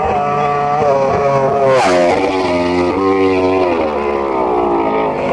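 Racing superbike engine at full throttle passing close, its pitch swooping down as it goes by about two seconds in, then climbing in steps through several quick upshifts as it accelerates away.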